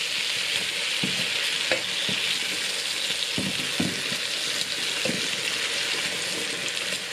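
Onions and cherry tomatoes sizzling in oil in a non-stick pan, with a few knocks as a plastic masher presses the tomatoes down against the pan.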